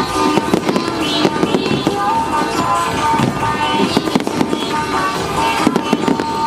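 Fireworks bursting with repeated bangs over loud, steady music playing throughout.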